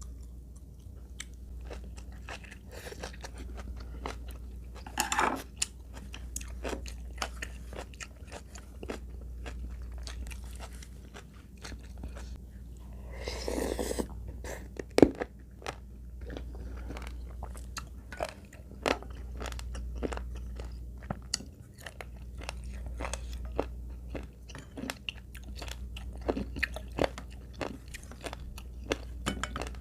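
Close-miked chewing and biting with crisp crunches and wet mouth clicks, over a steady low hum; a brief rush of noise about 13 seconds in.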